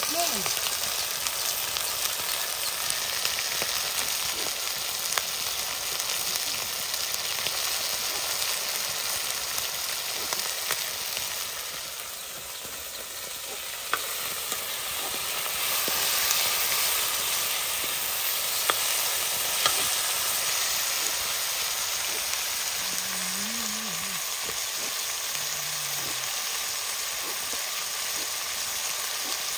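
Chicken frying in hot oil in a pan: a steady sizzle with a few sharp clicks of stirring. The sizzle eases briefly about halfway through, then comes back up.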